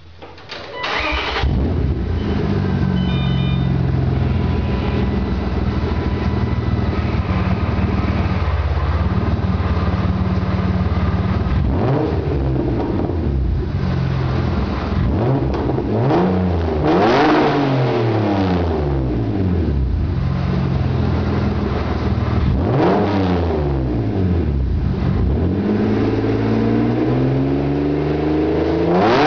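1995 BMW M3's S52 3.2-litre straight-six starting up through a full 3-inch exhaust with a Magnaflow high-flow cat and straight-through race muffler. It catches about a second in and idles steadily, then is revved up and allowed to fall back to idle several times in the second half.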